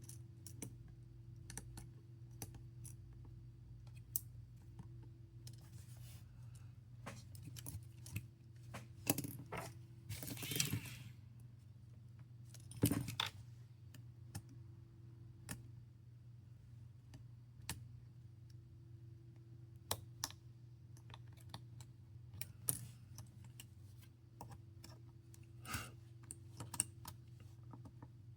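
Small metal tools and phone parts clicking and tapping as a smartphone is taken apart, with a short scraping rustle about ten seconds in and the loudest tap a few seconds later, over a steady low hum.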